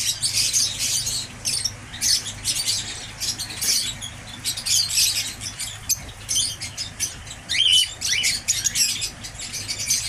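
Many small birds chirping and squawking in a dense, high-pitched chatter, with one louder call near the end, over a steady low hum.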